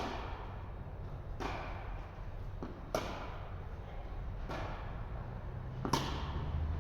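Tennis rally: a tennis ball struck by rackets about every second and a half, five hits, with fainter knocks between them, each hit ringing briefly in a reverberant indoor court.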